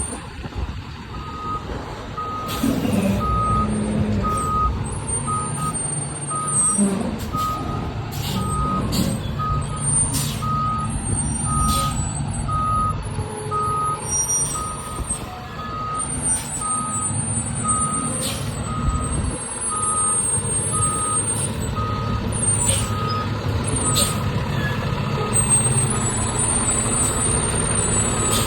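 Fire truck's backup alarm beeping in an even, repeating rhythm while the truck reverses, over the steady running of its diesel engine.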